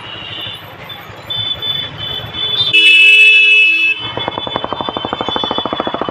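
Royal Enfield Bullet 350 single-cylinder engine running, then a loud horn-like blast lasting about a second, a little under three seconds in. After it the engine beats come fast and even.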